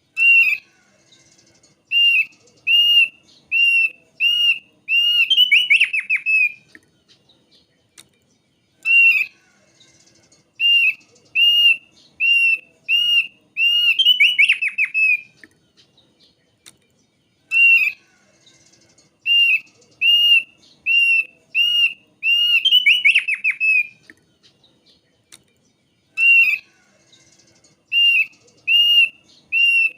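Thick-billed white-eye singing: phrases of about eight clear, evenly spaced whistled notes that end in a fast, falling trill. The phrase repeats about every eight to nine seconds, four times in all.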